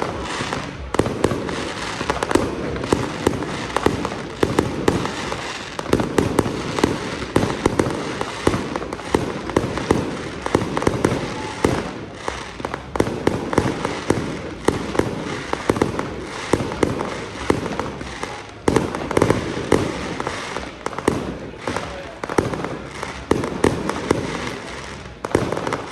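Fireworks going off in a rapid, unbroken volley of pops and bangs, many each second.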